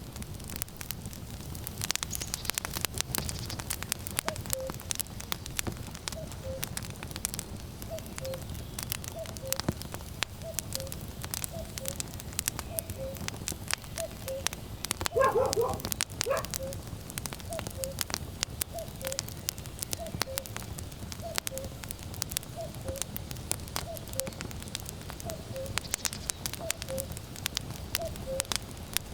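Wood fire crackling and popping steadily over a low rumble. A common cuckoo calls its two-note falling "cu-ckoo" over and over, about once a second. About halfway through there is a brief louder cry.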